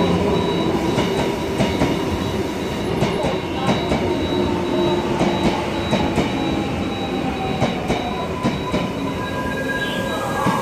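Gyeongchun Line electric commuter train rolling slowly into the station as it brakes to a stop: a steady rumble, with wheels clicking irregularly over the rail joints and a faint whine that sinks in pitch.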